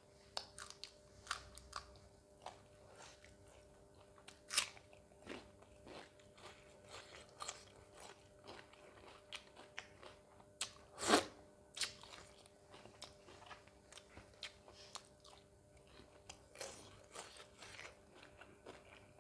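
Close-miked eating: crunchy bites into a raw green chilli and chewing of mutton curry, a string of small crunches with a sharp one about four and a half seconds in and the loudest about eleven seconds in.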